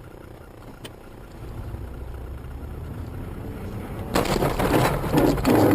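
A car's low road and engine hum, then about four seconds in a loud, rough scraping noise with sharp knocks.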